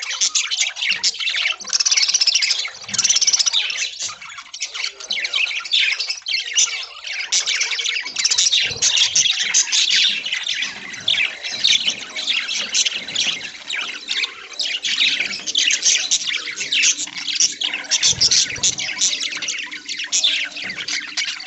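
A flock of budgerigars chirping and chattering, many quick calls overlapping without a break.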